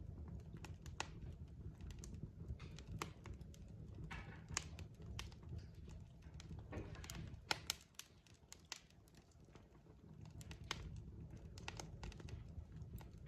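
Wood fire crackling: burning logs give off irregular sharp pops and snaps over a steady low rumble of flames, with a brief hiss about four seconds in and again near seven seconds.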